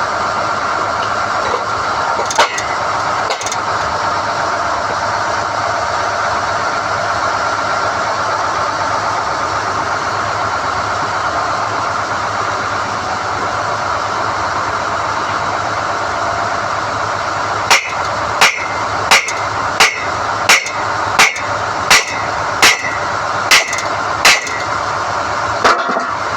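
SDH-1600 core drilling rig running steadily while pulling NQ drill rods. Two sharp knocks come early, and in the last third a regular series of about ten sharp knocks runs at roughly one and a half a second.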